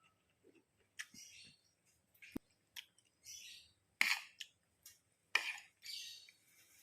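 A person eating fried rice close to the microphone: scattered, faint chewing and mouth-smacking sounds, with one sharp click about two seconds in.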